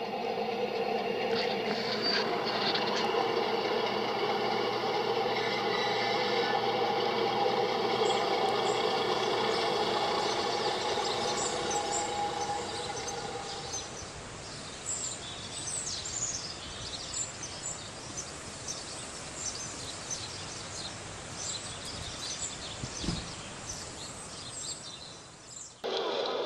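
A train running with a steady hum of several held tones that fades out about halfway through, leaving outdoor background noise with birds chirping and a single low thump near the end.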